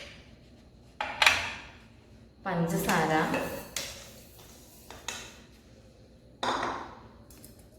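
A spoon clinking against a mixer-grinder jar as dry ingredients are added, with a few separate sharp clinks, each dying away quickly.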